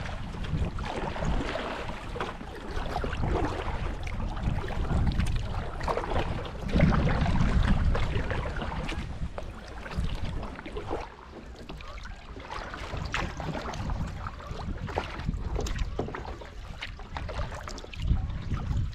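Wind buffeting the microphone in gusts, with the small splashes and knocks of canoe paddle strokes in the water.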